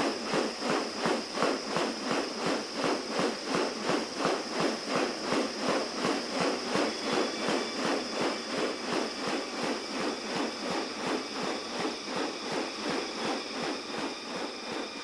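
Regular swishing pulses, about three a second, over a steady high insect drone.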